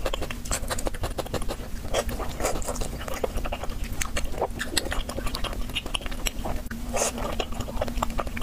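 Close-miked wet chewing of chewy noodles in thick sauce: a dense, continuous run of sticky mouth smacks and clicks.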